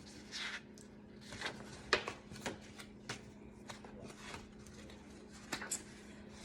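Paper handling as a picture book is opened and its pages turned: scattered short rustles and clicks at irregular intervals.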